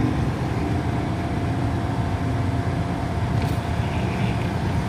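Steady motor-vehicle rumble, a low even noise with a faint steady whine.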